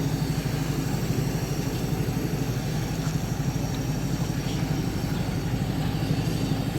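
A small engine running steadily, a fast even throb with its strongest sound low in pitch.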